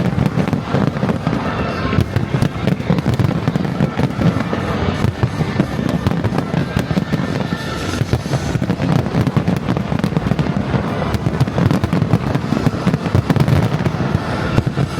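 Fireworks going off in a dense, continuous barrage of rapid crackles and bangs, with music playing underneath.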